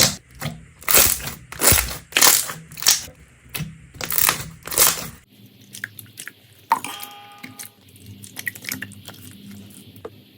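Crunchy slime being squeezed and pressed by hand, giving a run of about nine loud crackling crunches. About five seconds in it switches to a quieter stretch of small clicks and pops.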